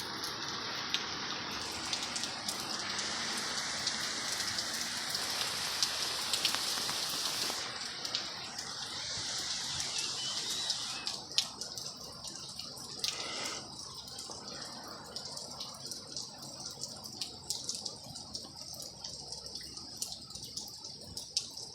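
Heavy rain falling, a steady rush with sharp drop hits close by. About eleven seconds in the rush eases, leaving mostly scattered drips and drop hits.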